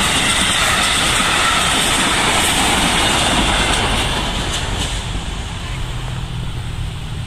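Electric commuter train passing close by on ballasted track, its wheels running over the rails with a steady rush of noise and a few clacks as the last bogies cross the rail joints. The sound fades a little after about four seconds as the tail of the train goes by.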